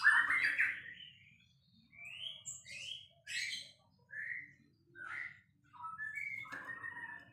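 White-rumped shama (murai batu) singing: a string of short, varied whistled and chattering phrases, a new one every half second to a second, loudest at the start.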